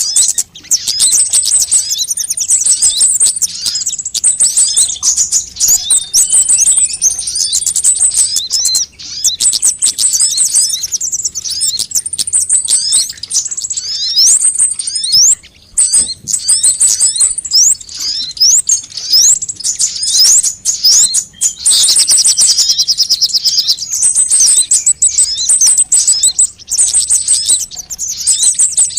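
Sunbirds ('kolibri') calling, a lure recording: a dense run of fast, high-pitched chirps and sharp trills with several calls overlapping, broken by brief pauses about 9 and 15 seconds in.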